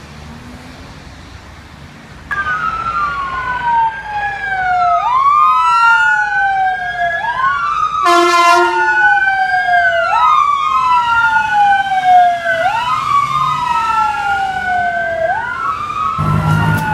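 Fire truck sirens wailing, more than one siren overlapping, starting suddenly a couple of seconds in; each sweep falls slowly and then jumps back up. A short horn blast comes about eight seconds in, and a low engine rumble near the end.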